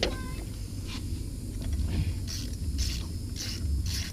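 Hand tools working on a car engine: a few short scraping strokes about half a second apart in the second half, over a low rumble.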